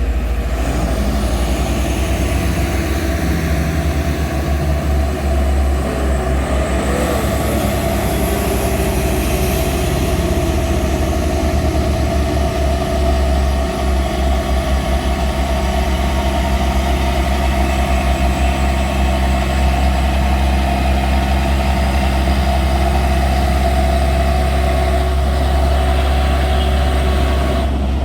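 Heavy truck engine running steadily at low revs, with no clear revving or single events.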